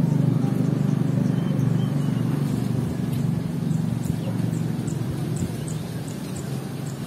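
A loud low rumbling noise, easing a little after about three seconds, with faint short high bird chirps above it.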